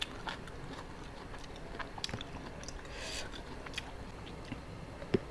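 A person chewing food close to the microphone: soft, scattered mouth clicks and smacks, with one sharper click near the end.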